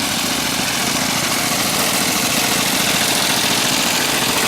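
Small steam engines running steadily: a fast, even mechanical chatter under a constant hiss.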